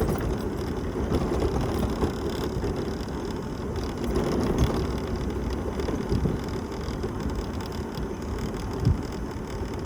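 Mobility scooter on the move: a steady low rumble and rattle of the ride, with a few short knocks, the sharpest near the end.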